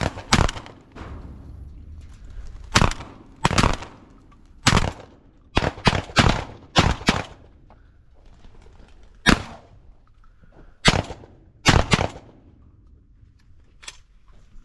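Shotguns firing at flushed pigeons: about fifteen sharp blasts at uneven spacing over roughly twelve seconds, several coming in quick runs as more than one gun shoots.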